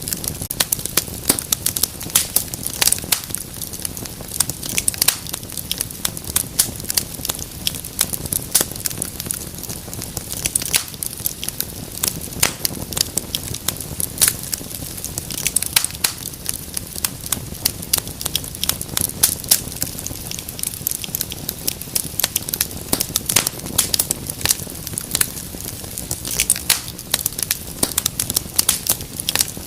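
Wood fire crackling in a fireplace: dense, irregular snaps and pops over a low steady rumble of flames.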